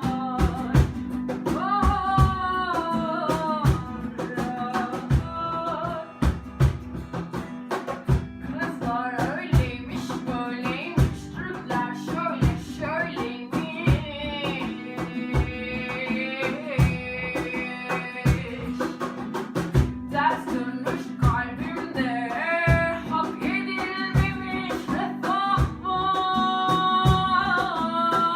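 A song: a voice singing over guitar and a drum kit keeping a steady beat.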